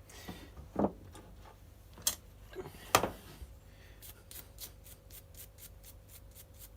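Bench work on the strimmer's primer bulb housing: a few separate knocks and clicks of small parts being handled, then a quick, even run of short scrubbing strokes, about six a second, as the area is cleaned.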